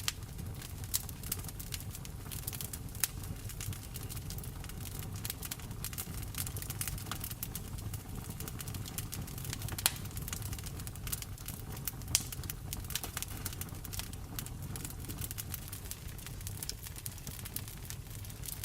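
Wood fire in a fireplace crackling with many small irregular snaps and a few louder pops, over a steady low rumble and the patter of rain.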